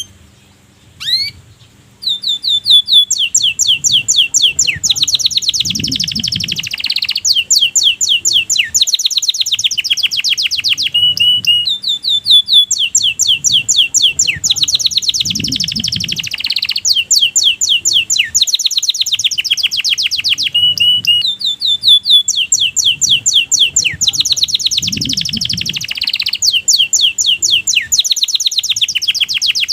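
Domestic canary singing: a continuous song of rapid trills, rows of fast repeated notes at changing pitches, the sequence of phrases coming round about every ten seconds. Two short chirps come first, with the full song starting about two seconds in.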